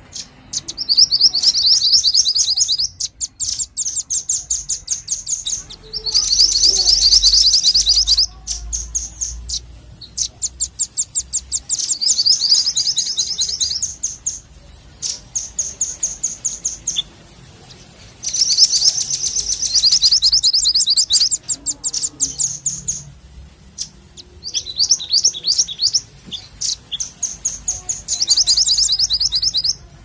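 Small songbird calling in about ten bursts of rapid, high, trilled notes, each burst one to three seconds long, with short pauses between.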